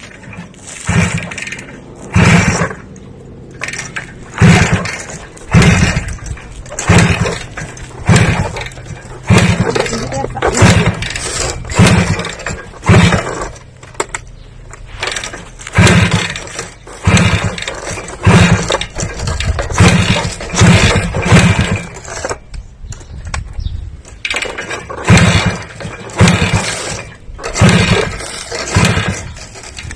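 A motor revved in short repeated bursts, roughly one a second, over a faint steady running tone.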